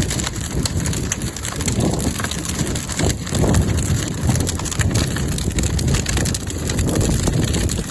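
Large bonfire burning well, a dense crackle of pops and snaps over a steady low rumble.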